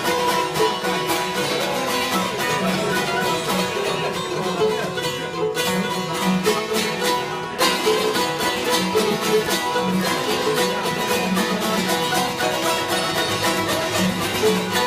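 Instrumental introduction of an Albanian folk song on plucked string instruments, a busy rhythmic melody over a steady held drone.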